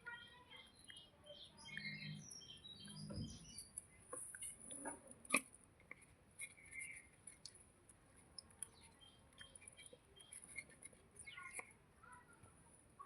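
Small birds chirping in quick bursts, most in the first few seconds and again near the end, over a steady faint high hiss. Scattered small clicks, and one sharp click about five seconds in.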